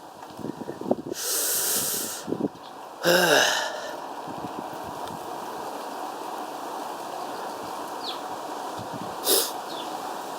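A steady rush of wind and riding noise on a cyclist's microphone, broken by loud breathy hisses about a second long, one near the start and one near the end, with a short falling-pitched burst about three seconds in.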